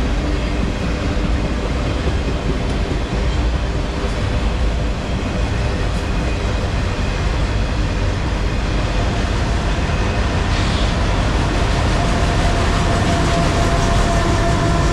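Autorack freight train cars rolling past: a steady, continuous rumble of steel wheels on rail. A faint steady tone comes in near the end.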